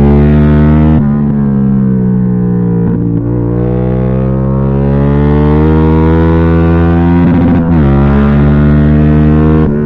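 Yamaha MT-07's parallel-twin engine pulling hard on the road: its pitch drops about a second in and sags, then climbs steadily under throttle until a quick break about seven and a half seconds in, after which it runs on at a lower pitch.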